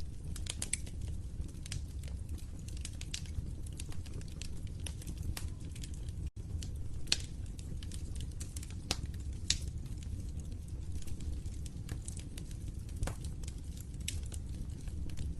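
Wood fire in a fireplace crackling: sharp pops at irregular intervals over a steady low rumble of flames. The sound cuts out for a split second about six seconds in.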